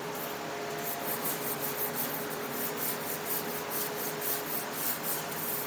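Brush scrubbing, with quick strokes about three or four a second. A faint steady hum runs underneath.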